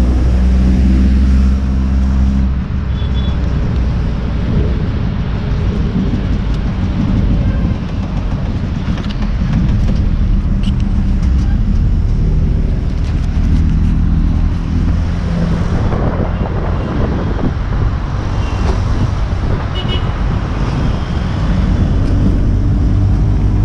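Small car's engine and road noise heard from inside the cabin while driving through city traffic. A steady engine hum changes to a rougher rumble about two and a half seconds in.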